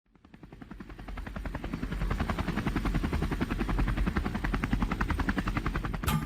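Helicopter rotor beating in a fast, even rhythm, fading in over the first two seconds and then holding steady. Percussive music cuts in just before the end.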